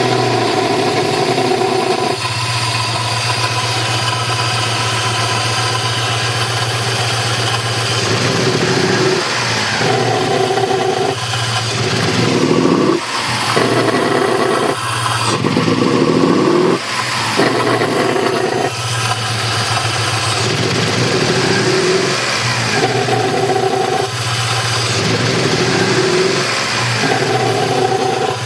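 1995 Toyota 4Runner's 3VZ-E V6 engine running with a loud, throaty note that comes and goes several times over a steady underlying engine sound. The throatiness is un-muffled exhaust noise entering the air intake box through the EGR/PAIR valve, because the after-market intake has no resonator. The owner also found that two shorted spark plugs, on cylinders 3 and 5, were exaggerating the sound.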